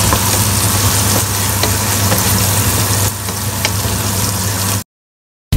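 Bitter gourd and tomato slices sizzling in a steel pot as a wooden spatula stirs and scrapes them, with a few light knocks, over a steady low hum. The sound cuts off abruptly near the end.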